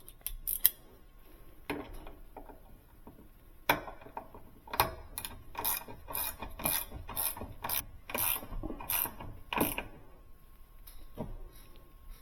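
Socket ratchet clicking as hinge screws are driven into a refrigerator door. A few separate clicks and taps come first, then a steady run of sharp clicks about two a second through the middle, easing off near the end.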